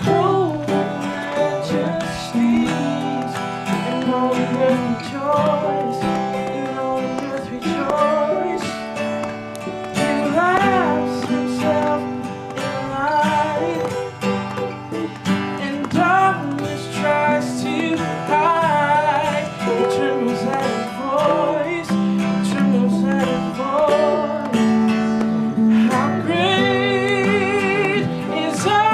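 Acoustic guitar strummed with singing of a praise song; the sung notes waver with vibrato near the end.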